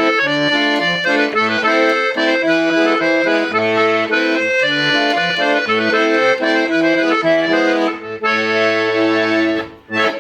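Hohner Student IV M accordion played: a changing melody over a low bass and chord accompaniment, ending in a held chord that stops just before the end.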